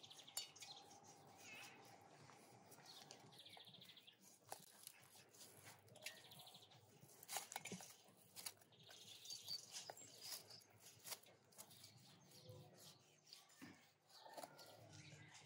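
Faint outdoor quiet with birds chirping now and then in short trills, and scattered small clicks and knocks.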